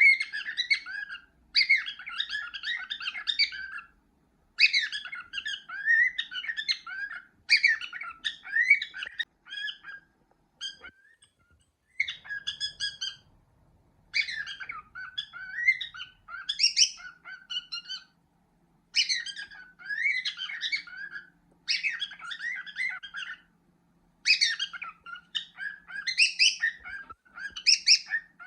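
Cockatiel whistling and chattering in repeated phrases of rapid, warbling chirps, each a second or two long with short pauses between.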